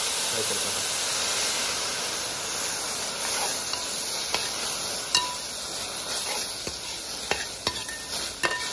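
Chicken and sauce sizzling in a hot metal pot, a steady hiss from a little water just added that slowly dies down. From about three seconds in, a metal spoon clinks and scrapes against the pot a few times as the chicken is stirred.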